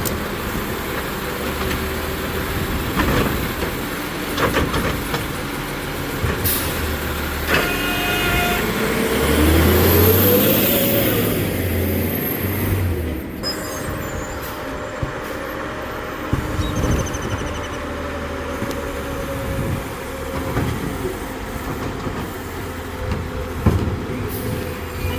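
CCC New Way Sidewinder automated side-loader garbage truck running. About ten seconds in, its engine note rises and falls as it works, and a steady drone carries on through the second half.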